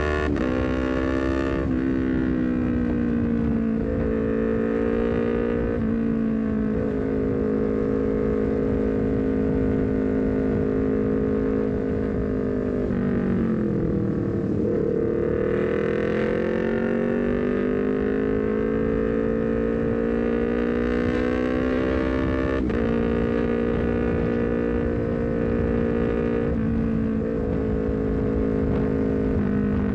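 Honda CBR250RR parallel-twin engine through a full R9 header and short Leovince GP Corsa carbon silencer, cruising at steady revs. There are a few quick gear changes with a brief break in the sound, and around the middle the revs drop and then build up again.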